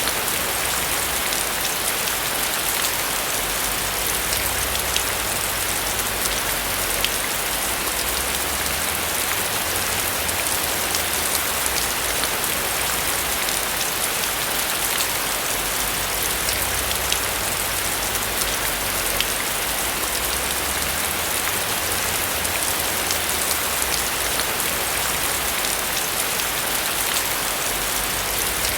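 Steady rain falling on a roof, a dense even hiss dotted with the small ticks of individual drops striking it.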